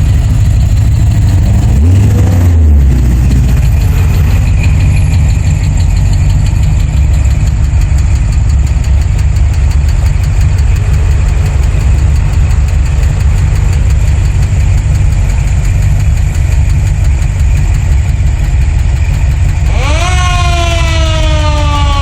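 Classic and hot rod car engines rumbling at parade pace, with one revving briefly about two seconds in. Near the end a pitched whine rises sharply and then slowly falls.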